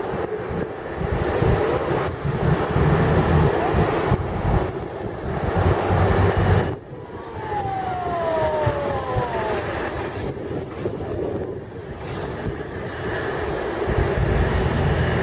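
Airbus A330-200 jet engines on approach, a loud steady roar with uneven low rumbling from wind on the microphone. About halfway through, a whine from the engines falls in pitch as the airliner passes.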